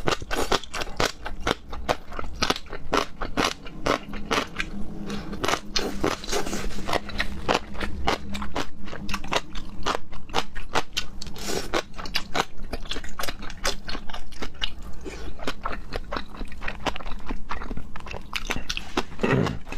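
A person eating: dense, irregular crunching and chewing with many sharp crackles.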